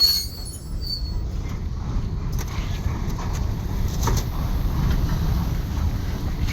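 Low, steady rumble of a train, with a few faint clicks; a high wheel squeal cuts off right at the start.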